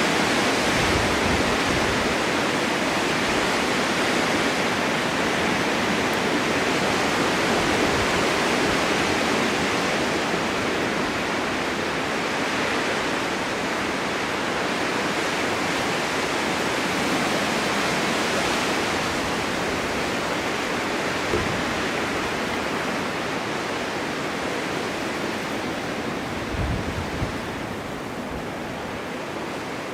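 Blizzard wind blowing snow: a steady, dense rush that swells and eases slowly, with a few low buffeting thuds of gusts.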